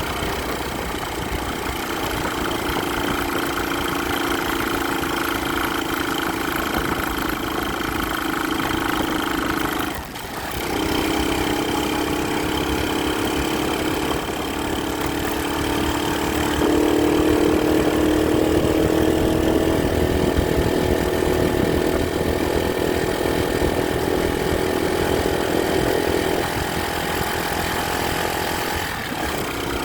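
Motorcycle engine running steadily with a fairly even tone. It drops briefly about ten seconds in and again near the end, and gets a little louder partway through.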